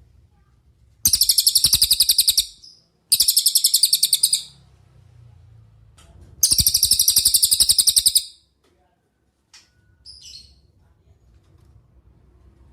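Cililin songbird singing: three loud, high, rapid trills of quickly repeated notes, each lasting about a second and a half, followed by a couple of faint short chirps.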